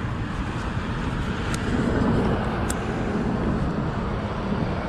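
Wind rushing over the microphone and road noise from a Kaabo Wolf GT Pro electric scooter being ridden, a steady low rumble.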